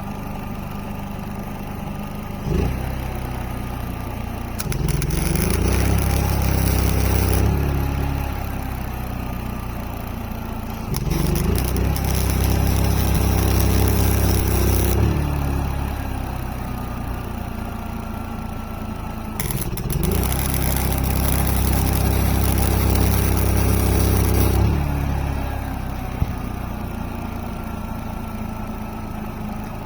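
Engine-driven welder idling, then speeding up three times as flux-core welds are run, each weld a few seconds of crackling arc hiss over the raised engine before it drops back to idle.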